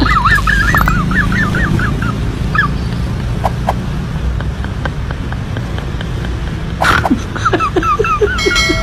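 Outdoor street ambience: a steady low rumble like distant traffic, with a small bird chirping in quick wavering runs near the start and again near the end. A short sharp noise comes about seven seconds in.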